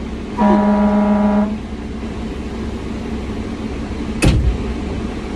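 Fire engine's horn sounding one steady blast of about a second over the engine running. About four seconds in, a short sharp burst of noise.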